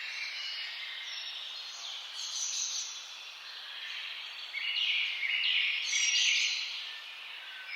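Several songbirds singing and calling over one another in quick, high phrases, louder for a couple of seconds past the middle, over a faint outdoor hiss.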